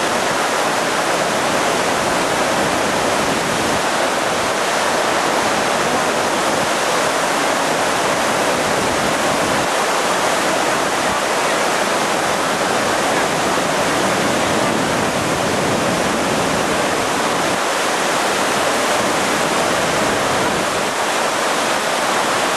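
Loud, steady rush of flowing water, an even roar with no breaks.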